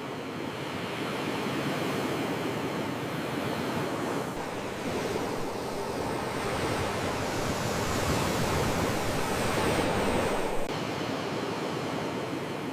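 Ocean surf: a continuous rushing of waves that swells to its loudest about ten seconds in, then drops back suddenly.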